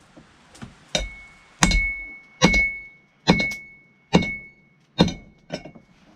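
Blacksmith's hammer striking hot steel on an anvil: about seven blows, one every second or less, each leaving a clear ringing tone.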